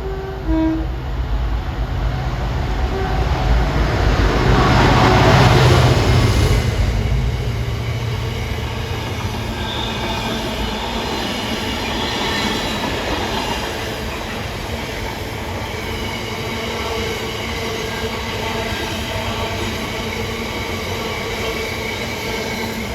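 A train running past on the track. It gets loudest about five seconds in, then wheels and rails go on steadily, with a faint high ringing of wheel squeal.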